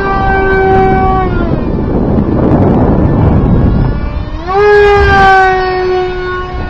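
Electric brushless motor and 6x4 propeller of a foam RC jet whining at high throttle. The whine drops a little past a second in and fades under rumbling wind noise on the microphone, then swells and rises just after four seconds and slowly falls in pitch as the plane passes.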